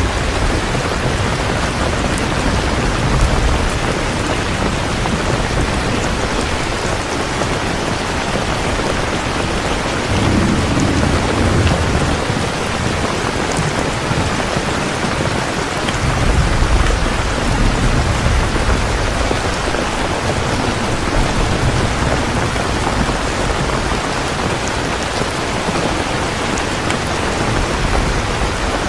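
Heavy rain falling steadily, with low rolls of thunder swelling twice, about a third of the way in and again past the middle.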